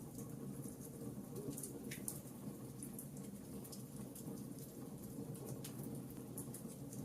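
Fireplace crackling: many small, sharp pops and snaps, several a second, over a steady low rumble of the flames.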